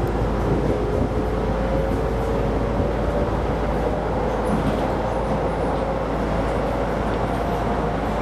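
Keisei Line electric commuter train running, heard from inside the train: a steady rumble of wheels on rail, with a whine from the drive that climbs slowly in pitch.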